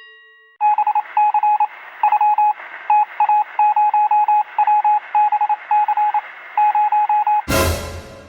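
Short electronic beeps at one pitch, coming in an irregular stuttering rhythm over a steady hiss. A sudden loud crash-like burst about seven and a half seconds in fades away toward the end.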